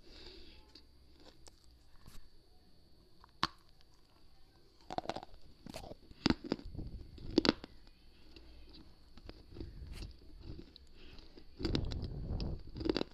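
Close-up biting and crunching of brittle slate and baked-clay pieces at an earphone microphone held to the lips. Separate sharp cracks of bites come a second or two apart, then denser gritty chewing near the end.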